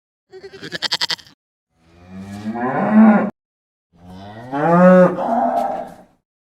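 Cattle mooing: two long moos, each rising in pitch and cutting off abruptly, after a short, rapidly pulsing call about a second long.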